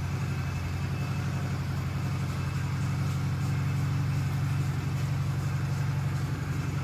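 Honda CRF250L's single-cylinder four-stroke engine idling steadily.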